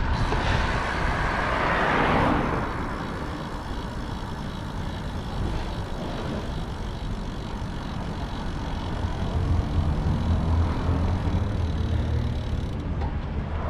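Road and wind noise while cycling, with a vehicle passing about two seconds in, then a lower engine hum from about nine seconds in.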